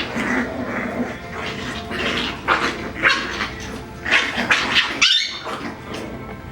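Coton de Tulear puppies play-fighting, making a string of irregular growls and yips, with a short rising yelp about five seconds in.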